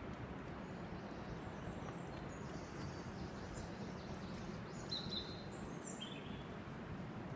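Small birds calling, high chirps and short trills for a few seconds in the middle, over a steady background hiss.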